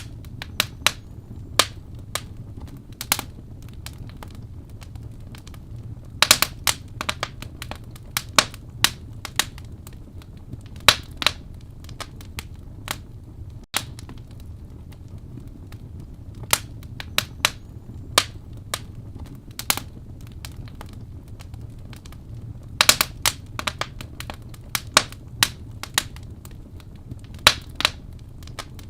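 Wood fire crackling in a fireplace: sharp, irregular pops and snaps over a low, steady rumble of flames. The crackles come thicker about six seconds in and again about twenty-three seconds in.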